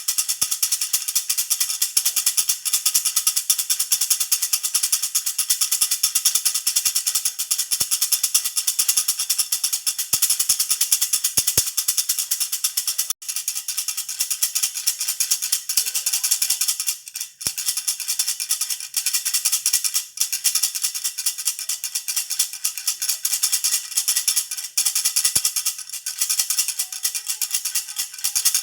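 A jhunjhuna baby rattle is shaken without stopping, giving a bright, fast, steady rattle with a couple of brief breaks along the way.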